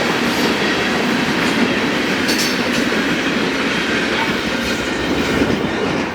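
A train's cars rolling past at close range, with a steady heavy wheel-on-rail noise.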